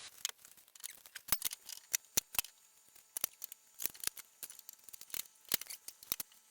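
A run of sharp, irregular clicks and light taps, several a second, with quiet gaps between them.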